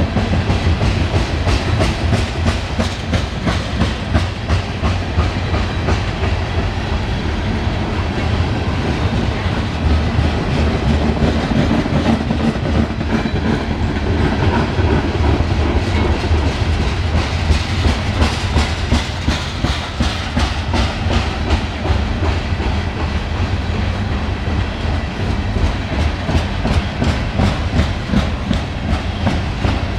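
Loaded coal cars of a BNSF freight train rolling past, their wheels clicking steadily over the rail joints above a deep rumble.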